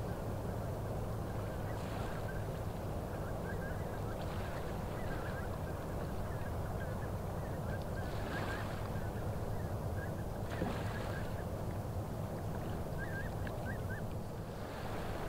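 Inland motor ship on the Rhine passing, its diesel engine giving a steady low drone. Many short high chirps from waterbirds sound over it throughout.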